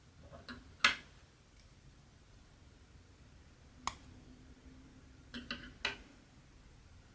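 A few sharp clicks and taps from handling cross-stitch work, such as a needle popping through the fabric. The loudest comes about a second in, then one near the middle and two close together near the end.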